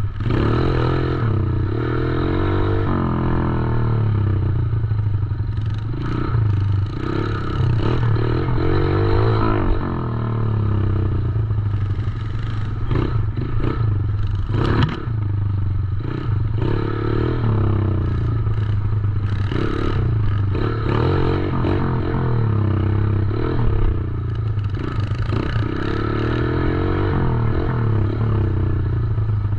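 110cc dirt bike engine running and revving up and down as the bike is ridden, with knocks and rattles throughout and a sharp knock about halfway through.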